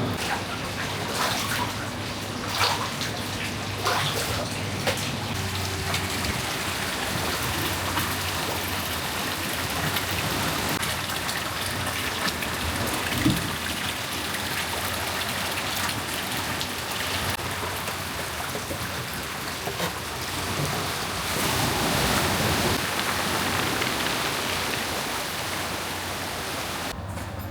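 Water running and splashing steadily, with a few light knocks, swelling louder for a few seconds about two-thirds of the way through.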